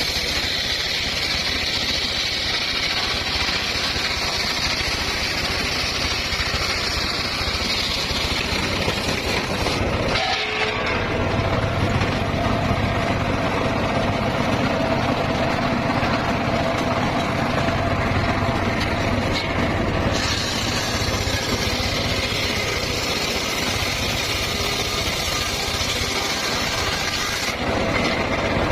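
Home-built circular sawmill running loud and steady as it works through timber, with a high whine from the blade that drops out about ten seconds in and returns about twenty seconds in.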